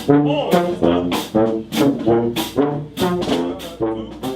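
A marching pep band playing second line music: trombones, trumpets and sousaphone in loud brass chords over a steady drum beat of about two hits a second.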